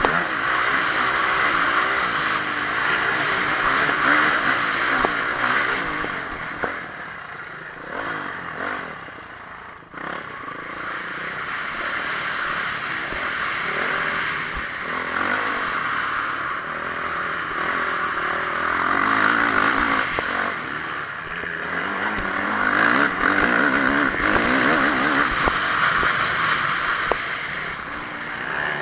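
Honda CRF450R motocross bike's single-cylinder four-stroke engine at race pace, revving hard and easing off in turns, with a clear drop in level about eight to ten seconds in before it pulls hard again.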